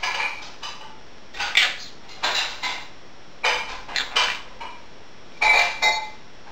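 Dishes and cutlery clinking and clattering in a sink during hand dishwashing: short ringing knocks every second or so, with several rapid clinks together a few times.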